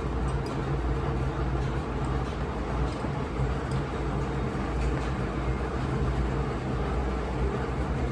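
Heavy diesel truck engine running steadily with a constant low drone.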